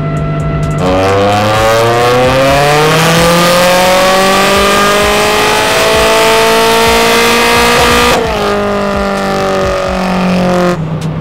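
Turbocharged Nissan SR20DET engine (stock bottom end, Garrett 3071R turbo) in a 180SX on a chassis dyno, doing a full-throttle pull: revs climb steadily for about seven seconds from about a second in. The throttle is then shut suddenly and revs fall back toward idle.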